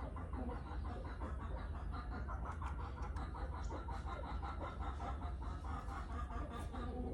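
Flowerpecker lure call: a fast, steady run of short repeated chirps, over a constant low hum.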